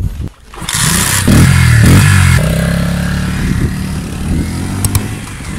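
Single-cylinder engine of a Keeway Cafe Racer 152 motorcycle starting up and revving about a second in, then settling to a steady, lower run.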